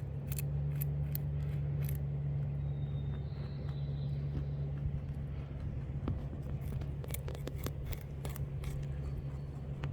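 Eastern cottontail crunching a carrot from a hand: irregular sharp, crisp chewing clicks, in runs near the start and again later, over a steady low hum.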